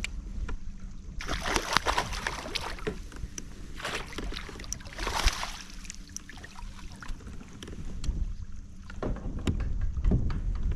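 Water splashing and sloshing around a kayak in several short bursts, with small knocks and clicks of gear handling, over a steady low wind rumble on the microphone.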